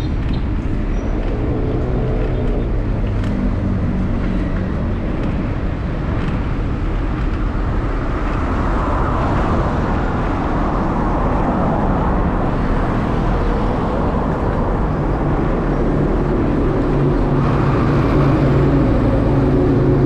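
Motor vehicle engine running on the road, its pitch shifting with speed, over steady road and wind noise.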